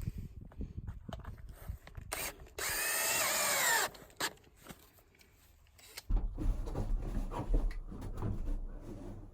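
A power drill runs in one burst of about a second, its whine dipping in pitch under load, amid scattered knocks and clatter of handling. A low rumbling noise fills the last three seconds.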